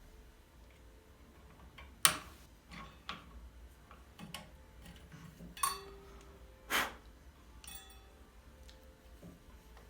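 Several separate sharp knocks and clicks, the loudest about two seconds in, with others following irregularly over the next five seconds.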